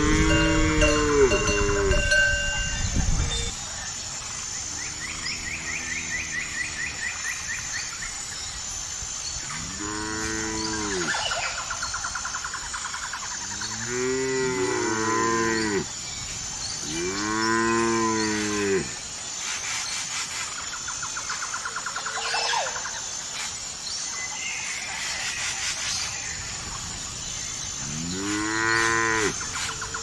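Cows mooing: a series of long moos every few seconds, each rising and then falling in pitch, with two calls overlapping partway through.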